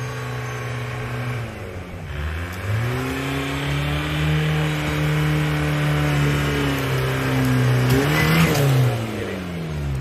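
Off-road competition vehicle's engine under way: the revs drop about two seconds in, climb back and hold steady under power, then fall away near the end, with a brief rush of noise just before the revs drop.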